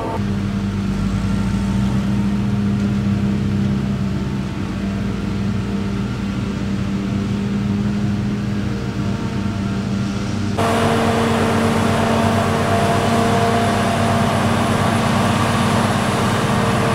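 Tractor diesel engines running steadily under load. About ten seconds in, the sound changes abruptly to a different engine with more hiss.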